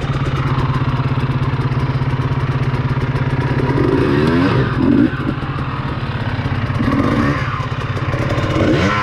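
Dirt bike engine idling steadily, with the revs rising and falling in throttle blips about four to five seconds in and again near the end.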